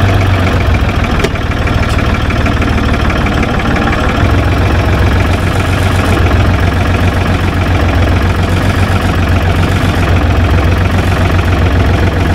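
Ford farm tractor's engine running steadily at low revs while the tractor reverses slowly into a tight space.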